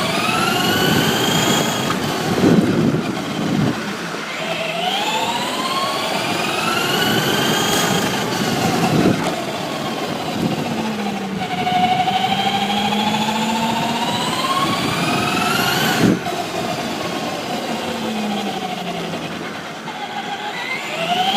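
Electric motor and gearing of a Traxxas Raptor SVT 2WD short course RC truck, a high whine that climbs in pitch each time the truck accelerates across pavement, about four runs, over tyre noise. Two sharp knocks, one near the middle and one about three-quarters through.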